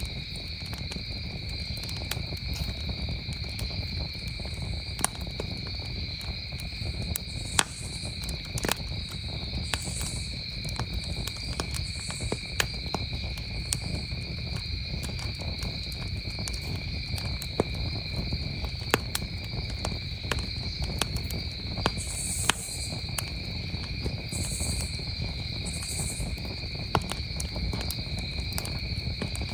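A wood campfire crackling, with scattered sharp pops, over a steady, unbroken chorus of crickets trilling at two high pitches.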